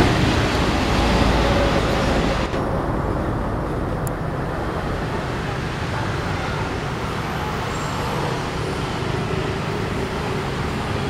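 Slow train of fuel tank wagons rolling past on the rails, a steady rumble that eases slightly. The higher hiss drops away suddenly about two and a half seconds in.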